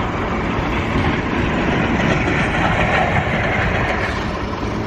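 Farm tractor's diesel engine running loudly and steadily close by.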